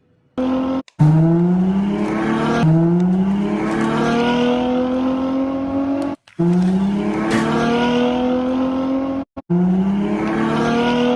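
Sports-car engine sound accelerating hard through the gears: the pitch climbs, falls back at each shift and climbs again, broken by a few sudden cuts.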